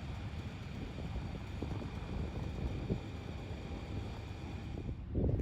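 Wind buffeting the microphone: an uneven low rumble that surges louder near the end.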